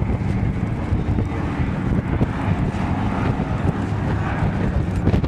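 An aircraft's engine drone during a flying display, a steady noisy sound with a low hum that fades a little after the start, with wind buffeting the microphone.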